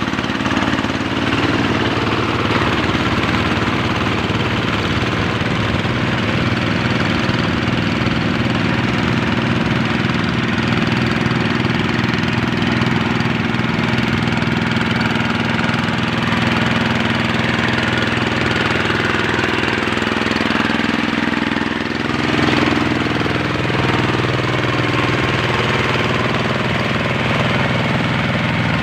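Single-cylinder Kubota RD85 diesel engine of a two-wheel hand tractor running steadily, with a brief dip and a shift in its note about three-quarters of the way through.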